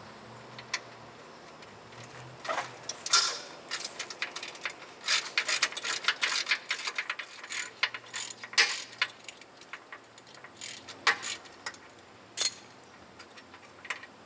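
Hand ratchet clicking in irregular runs of strokes as a steering rack hold-down bolt is turned out, with metallic taps between.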